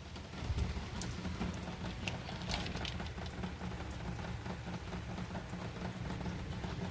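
Rain falling steadily, pattering with many small scattered drips and ticks.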